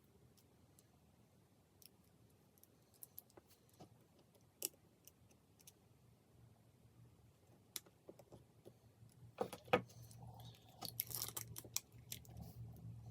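Scattered small clicks and taps of tools and parts being handled while disassembling an iPod nano, with a denser run of clicks and light rattling about ten seconds in. A faint low hum sets in about halfway.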